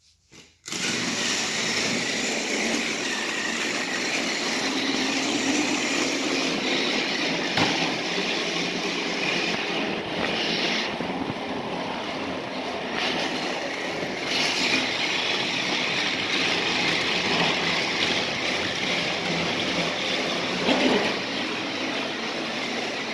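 Battery-powered Tomy Plarail toy train running on plastic track pulling freight cars: a steady motor whir and wheel rattle that starts suddenly just under a second in, with a couple of sharp clicks along the way.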